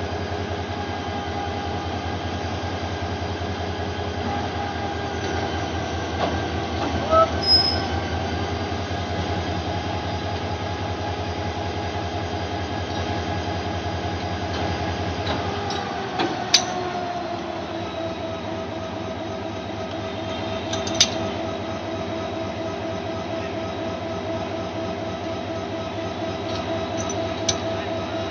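A train running, with a steady mechanical drone, a whine and rail noise. About halfway through, a low throb stops and the whine drops slightly in pitch. A few sharp clicks or knocks are scattered through it.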